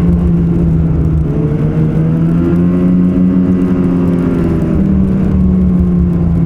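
Ski-Doo Renegade X-RS 850 snowmobile's two-stroke twin engine running steadily under way, its pitch drifting gently up and down with the throttle.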